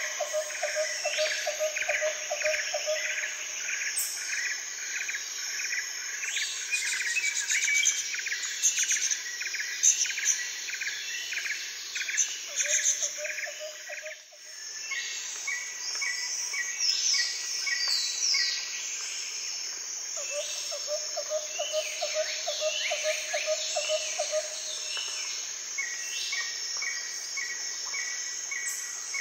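Birds and insects chirping: a steady high insect drone, repeated short chirps and falling calls, and a rapid pulsing trill that comes and goes.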